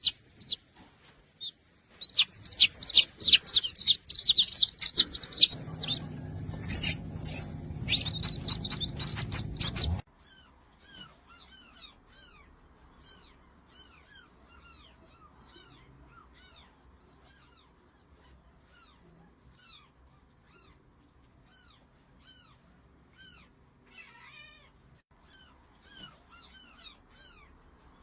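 Small birds chirping: rapid, loud, high chirps for about ten seconds, with a low hum behind them from about halfway through. Then an abrupt change to fainter, evenly repeated chirps that fall in pitch.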